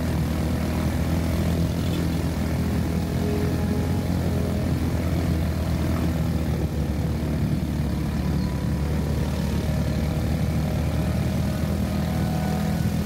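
Motorcycle taxi engine running steadily under way, heard from on the moving bike: a continuous even drone with no change in speed.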